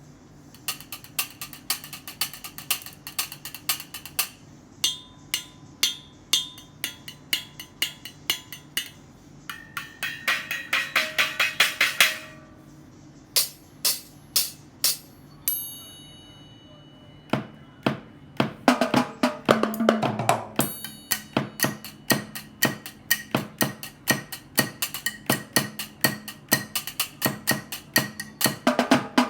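Miniature homemade drum kit made from cans. Its small cymbals are struck one after another and then in a fast roll that swells to a crash, ringing high and thin. About halfway through, the can drums join in with a steady beat under the cymbals.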